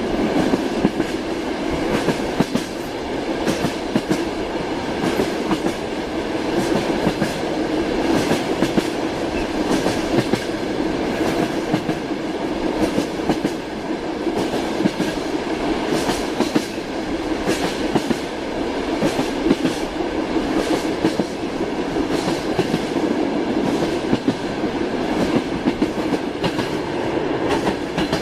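Train wheels clattering steadily over the rails, with many sharp clicks over a continuous rumble that keeps up with no change in pace or loudness.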